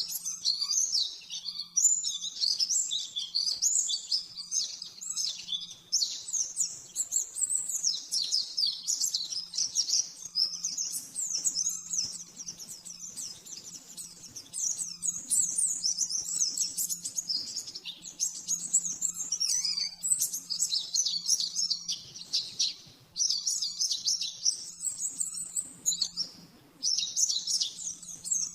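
White-eye (pleci) singing a fast, nearly unbroken run of high twittering chirps and trills, the rapid-fire 'nembak' song. It breaks off briefly twice near the end, and a faint low hum runs underneath.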